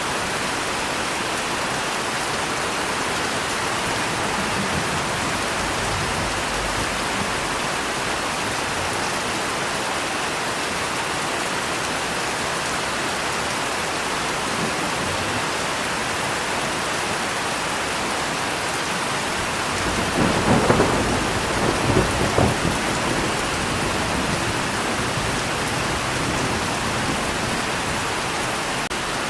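Steady heavy rain with a roll of thunder about two-thirds of the way through, rumbling in several peaks for a few seconds before fading back into the rain.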